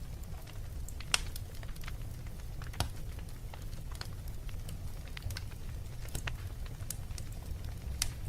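Wood fire burning in a fireplace: a steady low rumble of flames with irregular sharp crackles and pops, the loudest pop about a second in.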